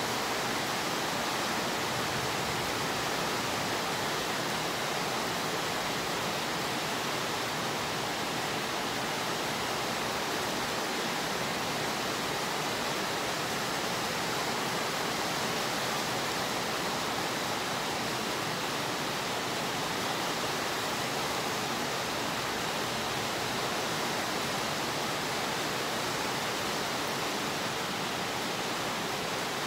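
Steady rain falling on a wet concrete yard: an even, unbroken hiss with no single drops or other sounds standing out.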